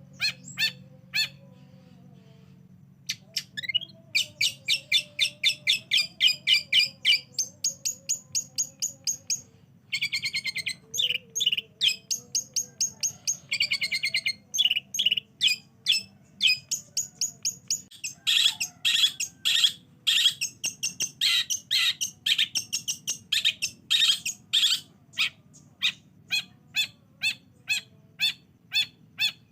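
Long-tailed shrike (cendet) singing: a long run of short, sharp notes at a few a second, broken by harsh, buzzy chattering stretches.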